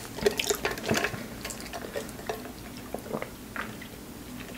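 Close-up mouth sounds of chewing: a run of small wet clicks and smacks that thins out toward the end.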